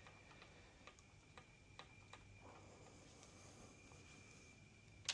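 Near silence: room tone with a few faint, irregular light clicks of tools being handled, and one sharper click at the very end.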